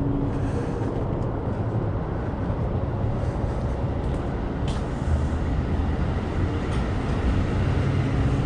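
Steady low rumble of a train running past on the tracks, with a few faint clicks over it.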